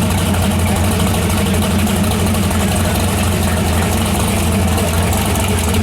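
Car engine idling steadily with a deep, even exhaust note.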